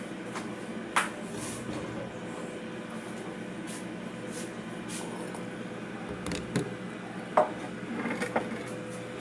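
Kitchen utensils and cookware handled: a few scattered knocks and clinks, the loudest about a second in and again near the end, over a steady background hum.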